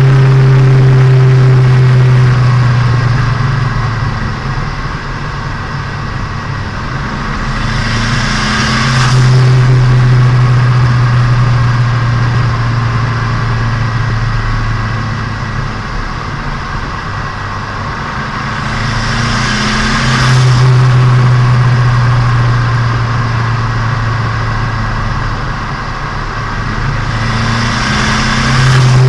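Turbocharged Nissan Micra engine and exhaust heard onboard during a break-in drive: a loud steady drone that eases off and comes back three times, each return opening with a brief rushing hiss.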